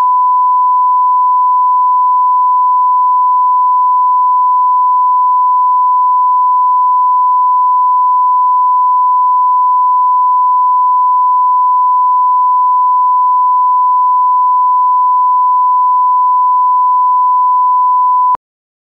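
Steady single-pitch line-up test tone on a programme leader, the reference tone for setting audio levels before the film starts; it cuts off suddenly near the end.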